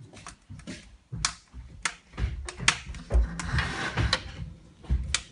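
Wood-burning stove's metal door and latch being handled: a series of sharp clicks and knocks with a short scraping slide just after the middle.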